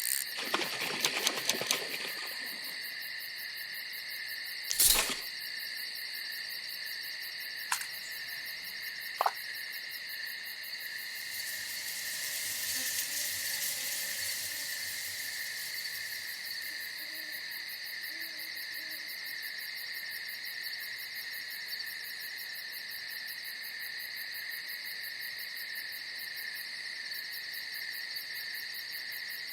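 Night chorus of crickets trilling steadily, with a sharp knock about five seconds in and two fainter clicks a few seconds later. Faint low calls come through the chorus midway.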